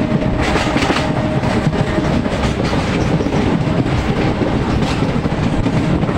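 MEMU electric passenger train running at speed, heard from its open doorway: steady wheel-on-rail rumble and rattle with a faint steady hum over it.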